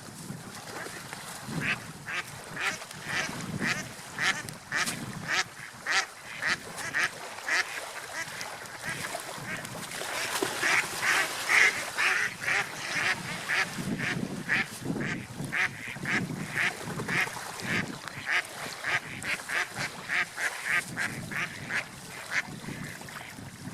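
Ducks quacking in a long run of short, sharp calls, two or three a second, densest and loudest around the middle.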